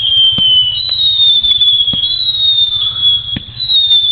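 Whistling fireworks: a string of loud, high whistles, each gliding slightly down in pitch over about a second and overlapping the next, with scattered small pops and crackles.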